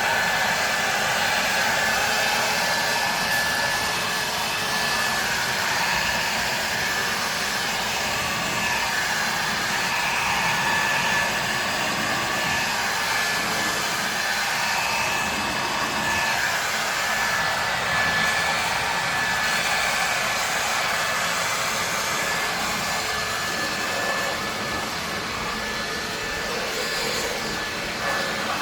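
Ryobi 2000 psi pressure washer running and spraying: a steady hiss with a thin, high, steady whine through it.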